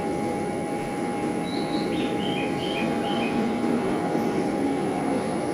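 JR East 253 series electric train departing the platform, with a steady running rumble of motors and wheels. A short run of high beeping notes comes about two seconds in.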